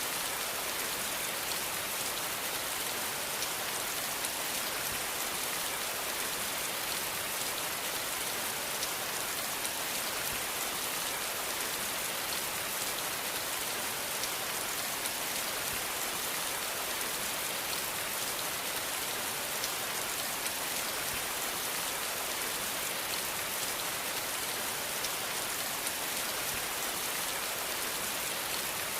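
Steady rain falling on a hard surface: an even, high-pitched hiss of many drops with faint individual drop ticks, unchanging throughout.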